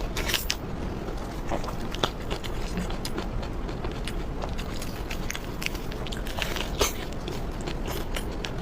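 Close-up eating sounds: a person biting and chewing food, with irregular wet crunches and clicks.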